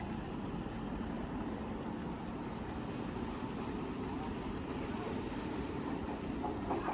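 Steady outdoor street ambience dominated by a low, even engine rumble from traffic.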